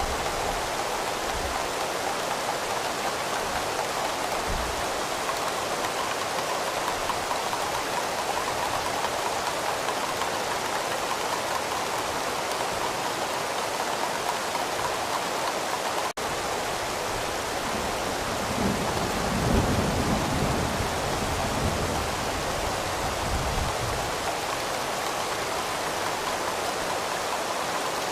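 Steady heavy rain hiss. A low rumble of distant thunder swells and fades about two-thirds of the way through, and the sound drops out for an instant just past halfway.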